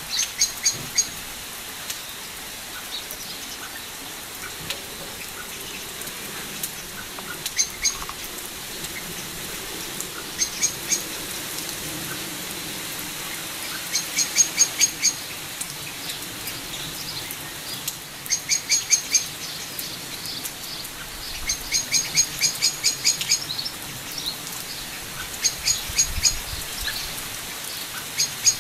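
Steady rain falling, with a bird calling over it every few seconds in short runs of quick, high-pitched chirps.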